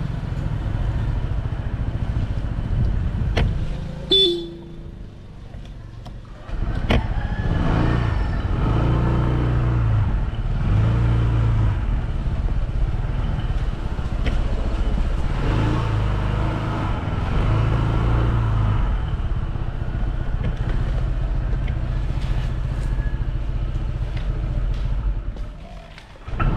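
A motor vehicle's engine running and changing speed, with a short horn toot about four seconds in.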